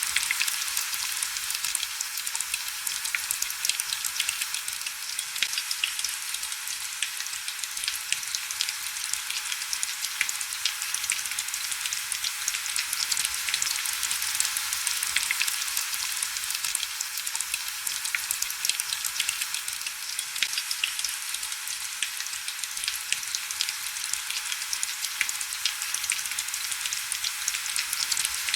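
Steady heavy rain: a thin, even hiss crowded with countless tiny drop ticks, with no low rumble.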